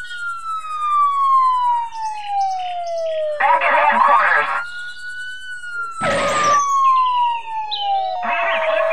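Police siren sound effect: a slow wail that falls steadily for three to four seconds, swoops back up, and falls again. Short bursts of busy, chirpy sound effects come in twice, and a brief loud burst of noise is heard about six seconds in.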